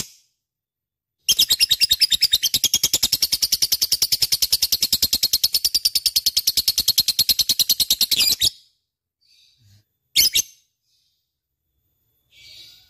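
Lovebird chattering in a fast, even run of sharp chirps, about ten a second, lasting some seven seconds, followed by two single sharp calls near the end.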